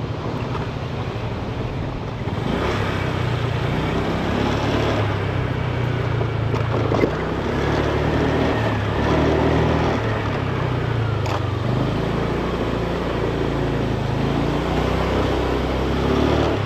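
A vehicle's engine running as it climbs a hill road, its pitch rising and falling as the speed changes, over steady road and wind noise.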